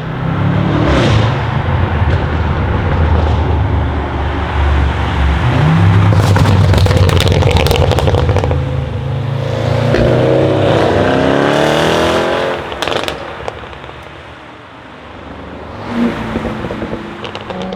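Tuned Audi RS6 C8's 4.0-litre twin-turbo V8 through a Capristo exhaust with downpipes and the particulate filter removed, running loud with a string of sharp crackles a third of the way in. It then accelerates with a rising pitch and dies away about three-quarters through, with a short rev near the end.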